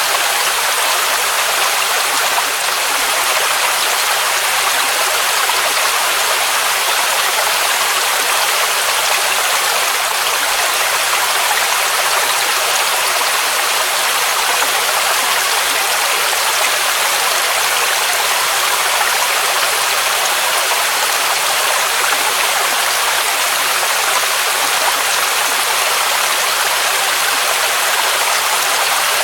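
Waterfall rushing: a steady, unbroken roar of falling water, mostly high hiss with little bass.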